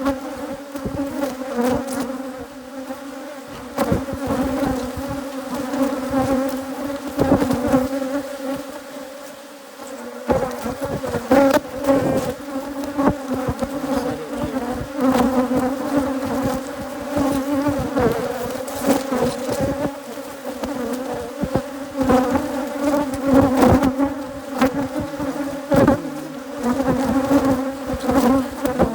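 A dense swarm of Africanized hybrid honey bees buzzing around an opened hive. A steady low hum runs throughout, with frequent brief louder buzzes as bees pass close.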